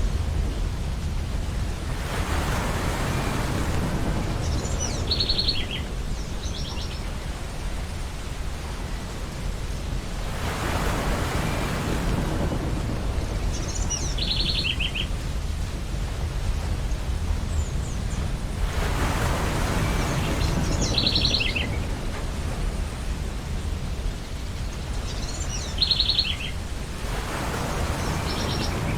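Ocean surf with waves breaking about every eight seconds over a constant low rumble. Birds give short bursts of rapid high notes four times, each shortly after a wave.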